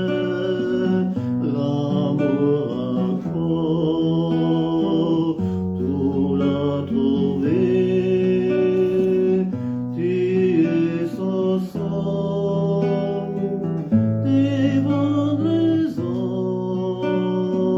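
Acoustic guitar accompaniment under a slow, held melody line of a French chanson, the notes sustained and stepping in pitch.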